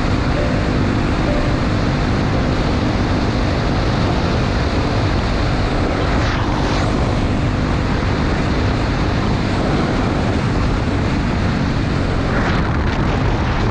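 Honda XR250 Tornado's single-cylinder engine running at a steady road speed, nearly buried under loud, steady wind rush on the microphone.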